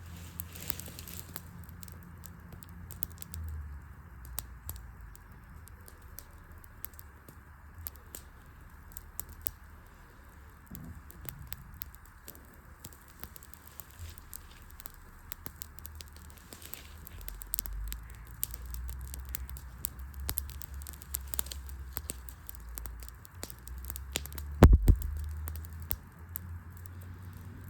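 Wood campfire burning, with irregular sharp crackles and pops from the burning logs over a low rumble. One much louder knock comes near the end.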